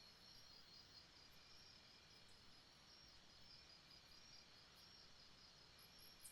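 Faint rainforest night ambience: a steady chorus of insects trilling in quick pulses, with a few short, very high chirps near the end over a low, even hiss.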